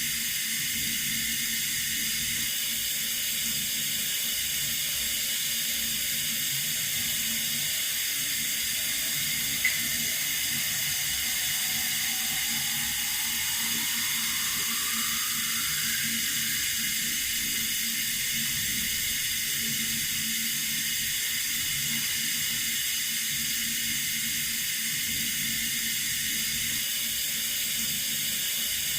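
Running water making a steady, even hiss. A single sharp click comes about ten seconds in, and a faint tone slowly rises in pitch over a few seconds in the middle.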